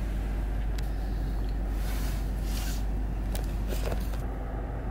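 Steady low rumble of a car's idling engine heard inside the cabin, with a few short sniffles from a crying girl.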